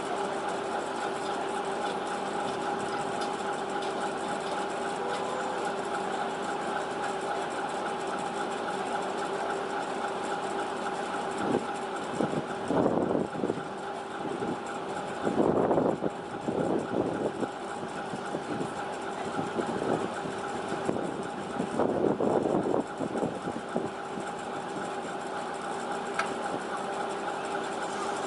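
An engine idling steadily, a continuous hum with two held tones. Louder, irregular sounds come and go over it through the middle stretch.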